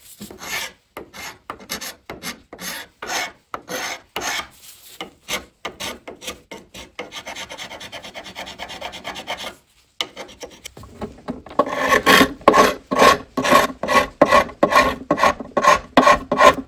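Hand abrading of wood in back-and-forth strokes, about two a second. The strokes turn quicker and lighter in the middle, stop briefly, then come back louder and harsher for the last few seconds.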